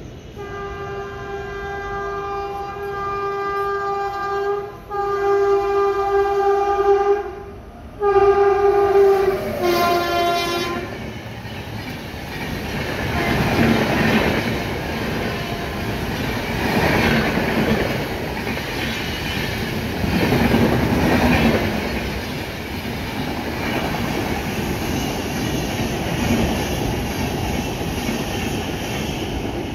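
WAP-7 electric locomotive sounding its horn in three long blasts, the last one dropping in pitch as the locomotive passes close by. Then the coaches of the Rajdhani Express rush past at speed with a steady, swelling rumble of wheels on rail.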